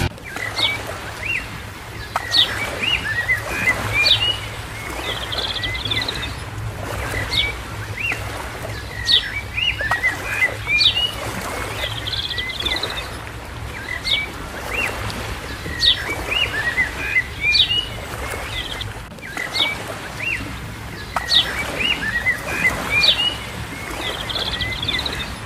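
Birds chirping: short, sharp calls and quick glides in a sequence that repeats about every seven seconds, over a steady low hum.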